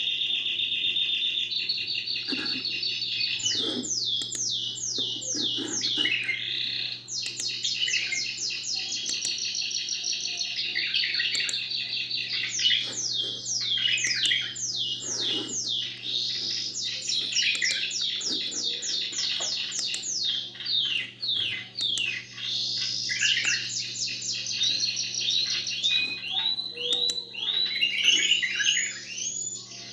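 Canary and bulbul song: an unbroken run of high, rapid trills and repeated down-slurred notes, switching to a new phrase every few seconds.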